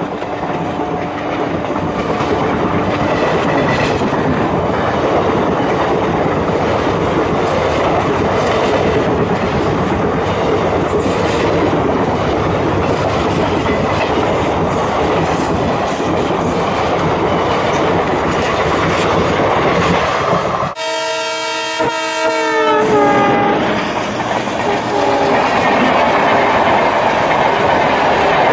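Train running with a steady rumble and clatter. A horn blows for about two seconds, about three-quarters of the way through.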